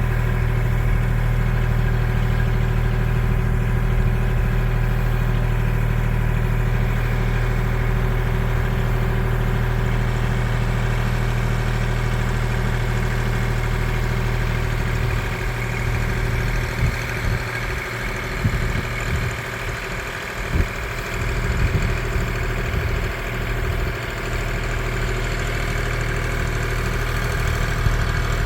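Kubota L2501 compact tractor's diesel engine running steadily at idle. About halfway through, its low rumble becomes uneven and dips for several seconds, then settles again near the end.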